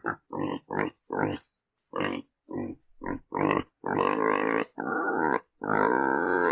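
Domestic pig grunting: a quick run of short grunts, a pause, then longer, louder grunting calls through the second half.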